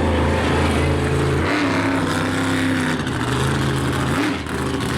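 Monster truck engine running loud, its pitch rising briefly about a second and a half in and again near the end.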